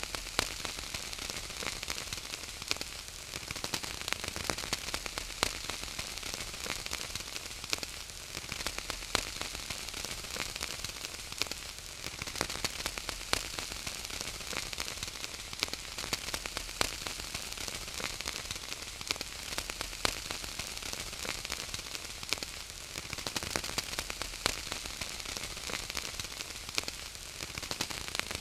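Burning wood fire: a steady hiss with frequent sharp crackles and pops.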